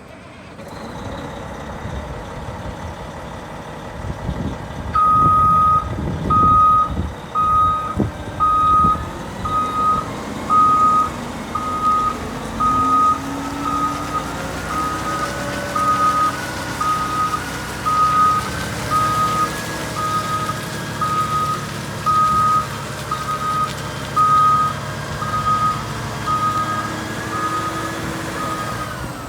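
Caterpillar 740B articulated haul truck's C15 diesel running, with its reverse alarm beeping a little over once a second from about five seconds in, the sign that the truck is in reverse. The engine revs up partway through as the truck pulls.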